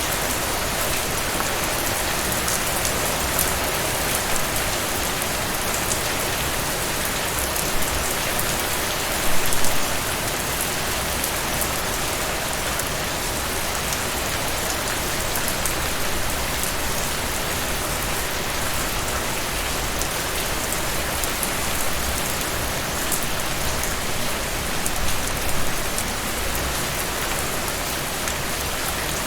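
Steady rain falling on surfaces, a continuous hiss with scattered drop ticks, and a brief louder splatter about nine seconds in.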